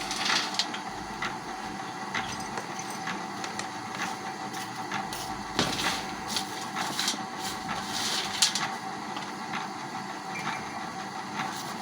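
Oil press running with a steady hum while dried coconut is fed through, its pieces cracking and crunching irregularly as they are crushed.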